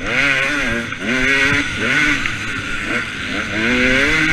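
A two-stroke motocross bike engine, likely a 2013 KTM 250 SX, revving hard, its pitch climbing and dropping several times as the throttle is opened and shut.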